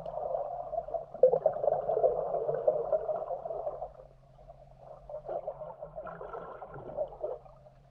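Muffled rush and gurgle of pool water heard underwater through an action camera's waterproof housing as a swimmer moves through it. It fades about four seconds in and comes back softer and patchier.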